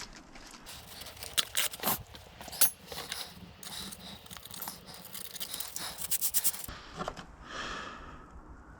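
180-grit sandpaper being handled and rubbed on the jack's rusty metal part: irregular short scrapes and rustles, with a quick run of rubbing strokes about five seconds in.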